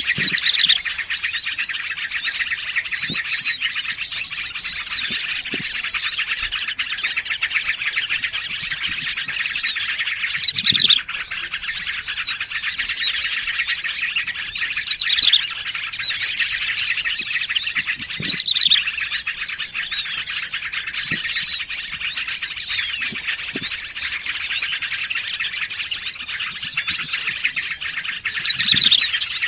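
A dense bird-lure chorus of small songbirds layered together, a busy stream of chirps, whistles and trills without a break, mixed from bulbul, prinia and other small forest-bird calls. A high buzzy trill runs for about three seconds starting about seven seconds in and comes back the same way near the end, as the looped track repeats.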